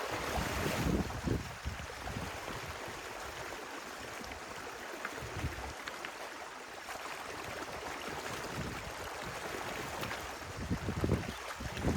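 Water of a freed woodland stream rushing and gurgling steadily, with low rumbling bursts about a second in and again near the end.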